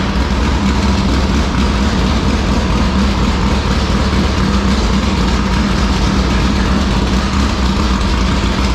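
IMCA Modified race car's V8 engine idling steadily, run as part of fogging it for winter storage.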